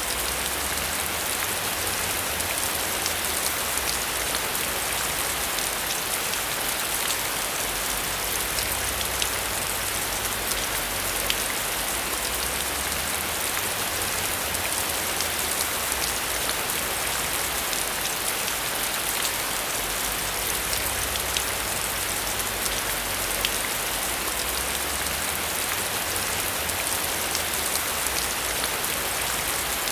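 Heavy rain falling steadily, with many sharp individual drop ticks over a dense hiss.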